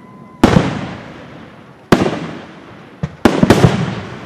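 Aerial fireworks shells bursting: a loud bang about half a second in, another just before two seconds, then a quick cluster of three or four bangs near the end. Each bang is followed by a long rolling echo that fades away.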